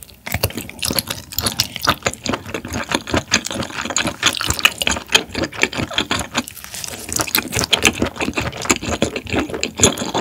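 Close-miked chewing of steamed abalone: rapid wet smacks and clicks from the mouth, with a short lull about six and a half seconds in.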